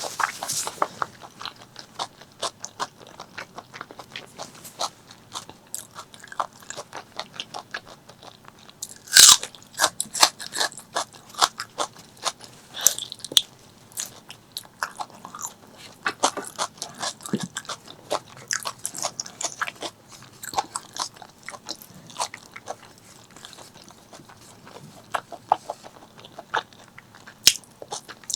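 Close-miked chewing of spicy pork leg curry and rice: a steady run of wet mouth clicks and crunches, with one louder crunch about nine seconds in.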